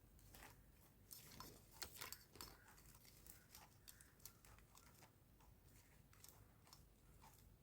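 Faint crinkling and clicking of plastic craft wire strands being handled and pulled tight through knots, in scattered light ticks.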